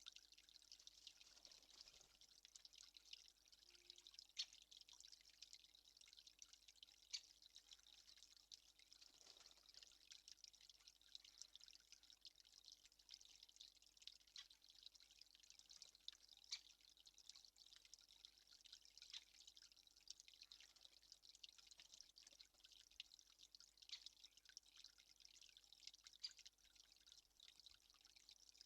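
Faint, irregular dripping of water drops over a low steady hiss.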